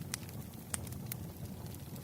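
Campfire burning: a steady low rush of flame with three sharp pops of burning wood, one near the start and two a little past the middle.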